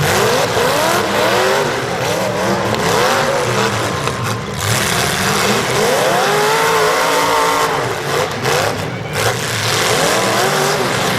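Several demolition derby car engines revving hard, their pitch rising and falling over and over.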